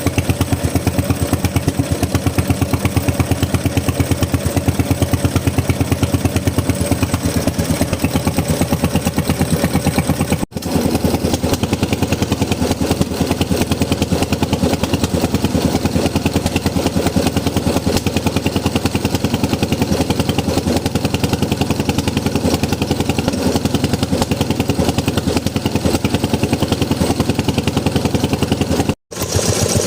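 Bernard Moteurs W14 engine running steadily with a fast, even firing beat. The sound cuts out briefly twice, about ten seconds in and near the end.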